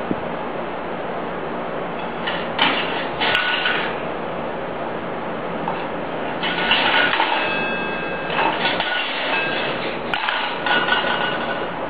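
Steel cup being knocked and pushed about by a grey parrot: metal clattering and ringing in four short bursts, over a steady background hiss.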